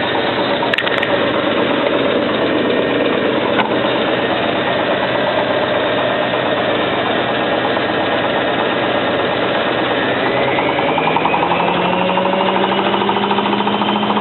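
Hotpoint 9534A washing machine spinning, the drum and motor running steadily with a rough mechanical rattle, then about ten seconds in the motor's whine rises as the drum speeds up.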